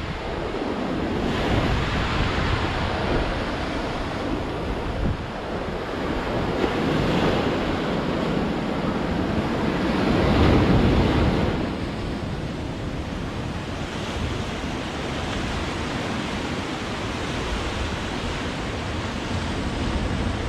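Ocean waves breaking and washing on the shore in a continuous surf, swelling and easing, with the loudest wave about ten seconds in.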